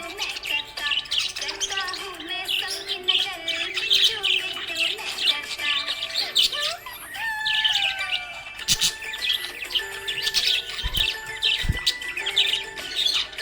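Budgerigars chirping and warbling in a steady stream of quick, overlapping chirps.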